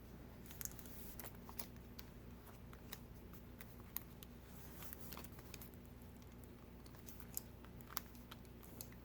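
Faint, scattered clicks and taps over a low steady hum: hands pressing a replacement iPad Pro screen down onto its adhesive to seal it to the frame.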